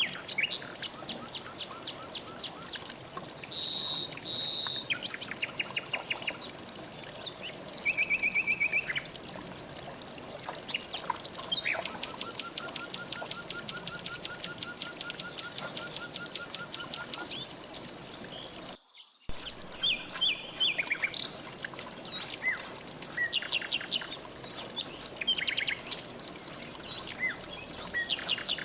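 Several songbirds singing and calling in quick trills and repeated notes over the steady rush of flowing river water, with a steady high-pitched tone underneath. The sound cuts out briefly about two-thirds of the way through.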